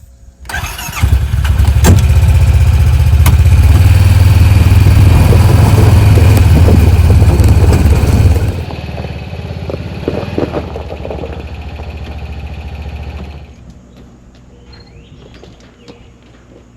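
Honda Pioneer side-by-side's engine starting and running loudly with a steady low hum for about eight seconds, then dropping to a quieter note and fading out near the end.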